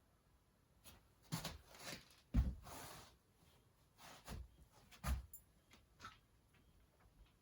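Scattered knocks and clicks with a brief scraping rustle: transmission parts and tools being handled and set down during engine assembly. The loudest knock comes a little over two seconds in.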